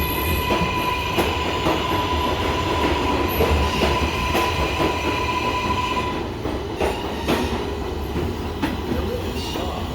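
An R188 subway train running on the rails, its wheels clicking over rail joints in a steady rhythm, with a steady high tone over the rumble that stops about six seconds in.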